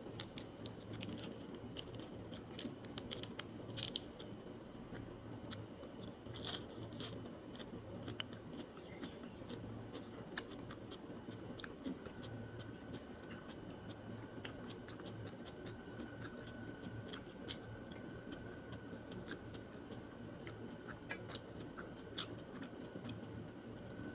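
Close-miked eating: crisp crunches of raw vegetable greens being bitten and chewed, thickest in the first several seconds, then softer chewing of rice and grilled chicken eaten by hand. A faint steady whine comes in about halfway.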